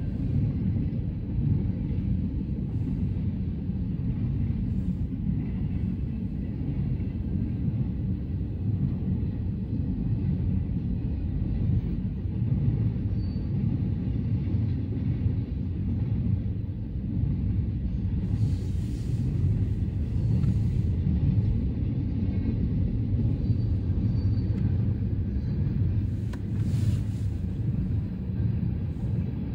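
CN train rolling past, a steady low rumble of cars on the rails, with short hissing bursts about two-thirds of the way through and again near the end.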